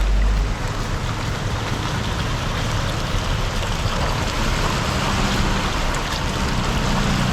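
Rushing floodwater from a flooded creek, a steady, loud wash of water.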